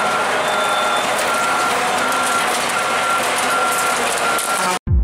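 Truck reversing alarm beeping at an even pace, about four beeps every three seconds, over loud engine and traffic noise. The sound cuts off abruptly near the end.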